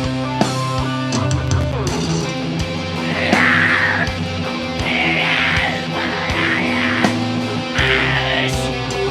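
Live heavy metal band playing loud, with electric guitars, and several harsh bursts cutting through the middle and near the end.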